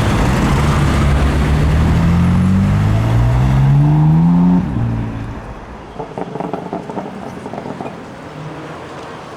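BMW M4 F82's twin-turbo straight-six accelerating hard, its note rising steadily for about four and a half seconds before it drops away sharply and fades into street noise.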